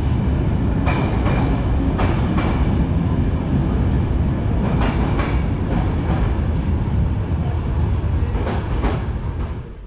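Passenger train rolling past close by, a steady low rumble with the wheels clicking over the rail joints in quick pairs several times.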